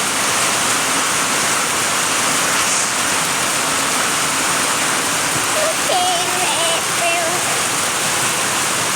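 Heavy rain falling, a loud steady hiss of water.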